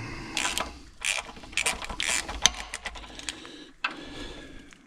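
Socket ratchet clicking in a series of short, uneven strokes, bunched in the first two and a half seconds with scattered clicks after.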